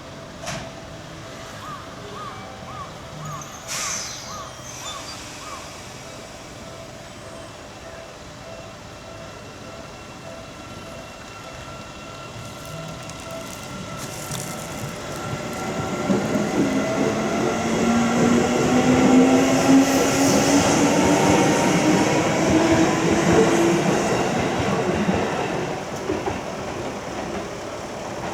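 Seibu Tamako Line electric train passing over a level crossing, growing loud from about halfway, with the whine of its motors rising slowly in pitch as it gathers speed. Earlier, a level-crossing bell dings about twice a second.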